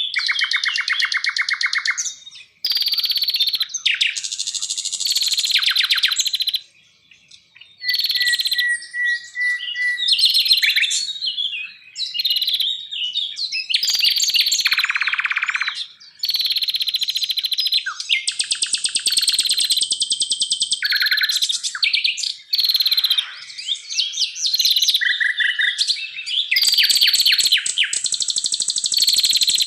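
Songbirds singing continuously: a dense run of varied chirps, rapid trills and whistled phrases, high-pitched. Many phrases start and stop abruptly, with one brief pause about seven seconds in.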